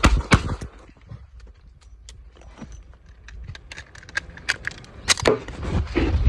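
Revolver being handled in a quick draw-and-reload drill: a run of sharp metallic clicks and rattles, dense at the start, sparse in the middle, and thicker again near the end.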